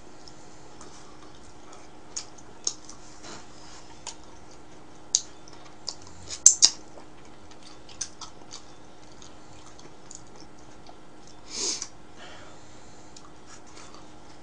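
A person chewing pizza close to the microphone: scattered sharp wet mouth clicks and smacks, loudest a little after the middle, with one short noisy burst near the end. A faint steady hum runs underneath.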